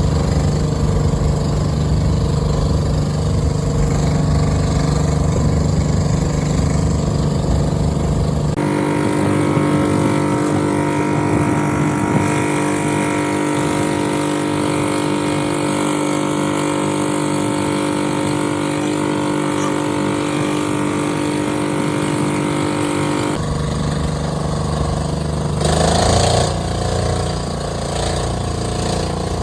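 A boat's engine running steadily, its sound changing abruptly twice. About three-quarters of the way through, the pitch climbs briefly and it gets louder as the engine speeds up.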